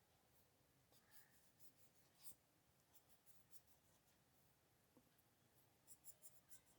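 Near silence with a few faint, short scratches of a felt-tip sketch pen drawing on paper, clustered near the end.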